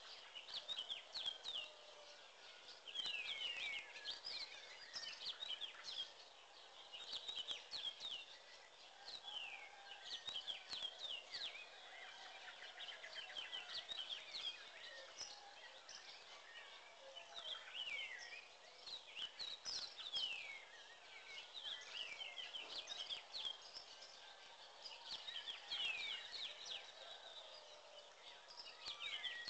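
Birds chirping and twittering: clusters of short, quick falling chirps every couple of seconds, fairly faint, over a soft outdoor background.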